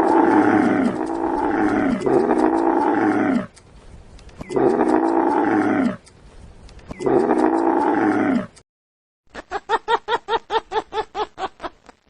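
A farm animal calling: loud, harsh calls, each about a second long and falling in pitch, in three bouts with short pauses, then a rapid series of short pulsed calls, several a second, near the end.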